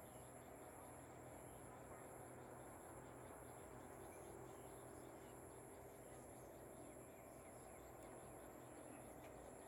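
Near silence with faint insects trilling: a steady high whine and, above it, a high trill pulsing at an even beat, over a low background hiss.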